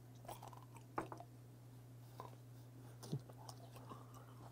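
Close-up chewing of boiled beef tongue: a handful of faint, separate wet smacks and squishy bites, over a steady low hum.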